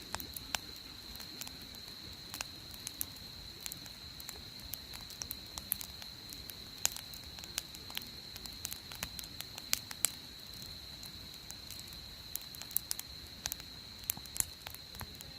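Wood campfire crackling, with sharp irregular pops and snaps over a low steady hiss. A thin, steady high-pitched tone runs underneath.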